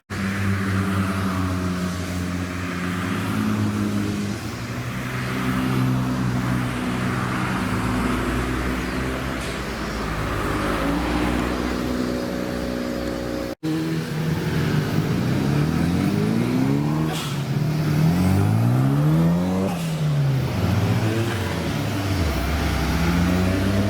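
A car engine running, held at steady speeds whose pitch steps up and down. After a sudden cut about halfway through, an engine is revved up and down several times in quick succession.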